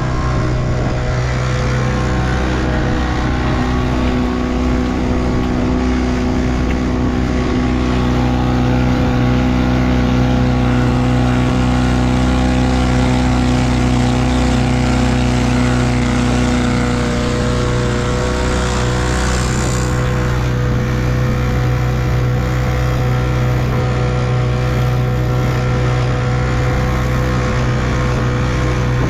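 1958 Evinrude 3 hp two-stroke outboard motor running at a steady speed.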